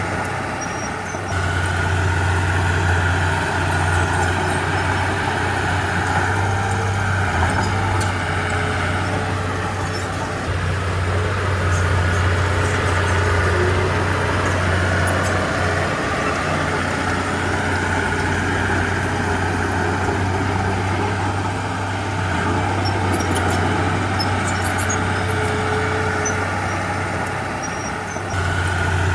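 Komatsu D31P bulldozer's diesel engine running under load, a steady heavy drone that swells and eases as it works, with occasional faint high clinks.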